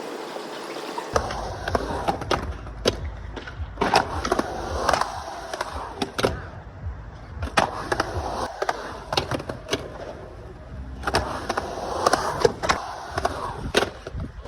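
Skateboard rolling on hard ground, its wheels giving a steady low rumble, with repeated sharp clacks and knocks of the board.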